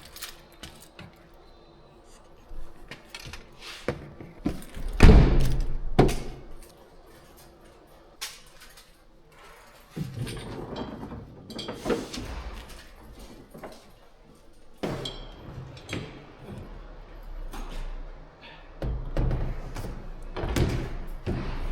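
Scattered knocks, thumps and rattles of a kayak being loaded onto a car's roof racks and tied down with straps, the loudest thumps about five and six seconds in.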